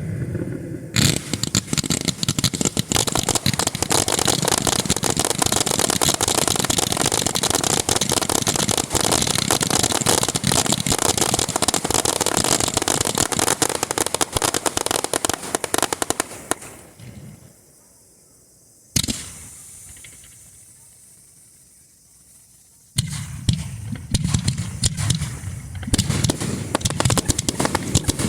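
Star mine fireworks barrage heard from near the launch site: a dense, continuous crackle of rapid-fire launches and bursts. It stops for a few seconds, one sharp bang sounds and fades, and then the rapid bursts start again.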